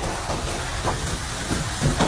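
Hurricane wind roaring steadily, with uneven low rumbling from gusts hitting the microphone.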